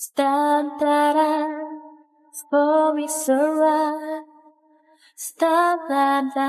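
A woman's voice singing a slow melody in long held notes, in sung phrases with a short break a little after halfway before the next phrase begins.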